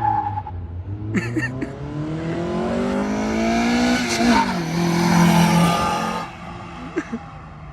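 1998 Honda Prelude's four-cylinder engine on its stock exhaust accelerating hard. The revs climb for about three seconds, drop sharply at a gear change, hold briefly, then the sound falls away about six seconds in as the car lifts off or moves off.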